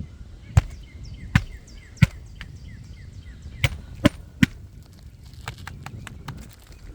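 Hammer driving roofing nails into asphalt shingles: six sharp strikes in two groups of three, then a few lighter taps.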